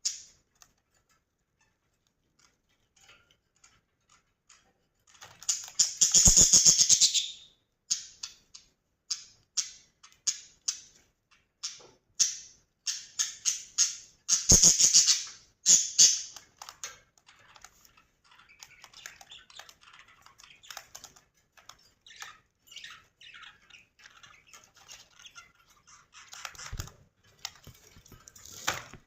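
Budgerigars chirping and chattering in many quick, high chirps, with two loud bursts of dense calling about six and fifteen seconds in.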